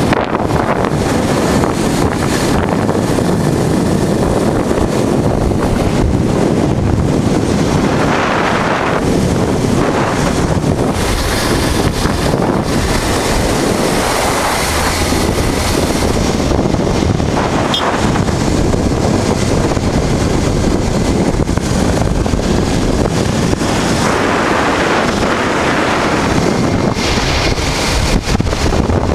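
Heavy wind buffeting the microphone of a moving motorcycle, with the rush of the ride beneath it, swelling and easing in gusts.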